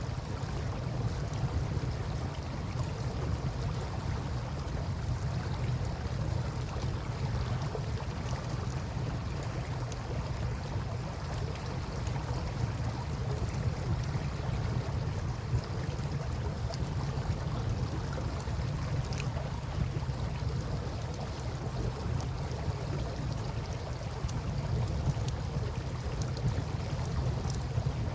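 Steady rushing and lapping of river water with a low rumble, and a few faint crackles and pops from a wood campfire scattered through it.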